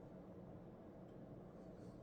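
Near silence: faint, steady low room tone with no distinct event.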